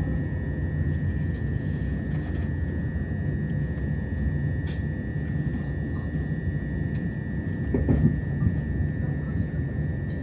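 Electric passenger train heard from inside the carriage while running: a steady low rumble of wheels on the track with a constant high tone over it. Faint scattered clicks, and a brief louder swell about eight seconds in.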